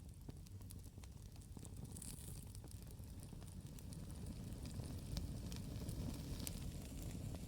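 Campfire burning with irregular sharp crackles and pops over a steady low rumble, a little louder in the second half.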